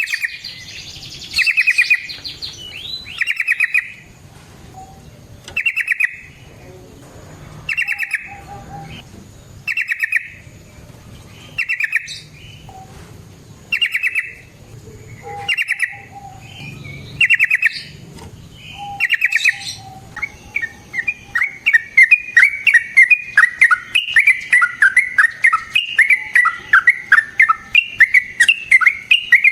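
Yellow-vented bulbul (trucukan) singing: short bubbling phrases about every two seconds, then, about two-thirds of the way through, a long, louder run of rapid chattering notes.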